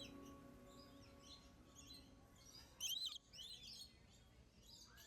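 Faint birds chirping, with short high twittering calls scattered throughout and a louder cluster of chirps about three seconds in. The last chord of the music is dying away at the very start.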